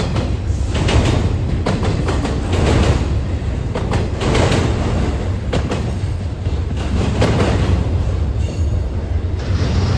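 A train passing close by: a steady low rumble with irregular sharp clacks of wheels over rail joints.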